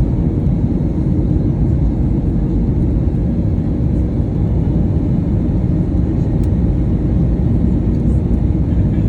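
Steady low rumble of an Airbus A321neo airliner heard from inside the cabin during landing: engine and airflow noise.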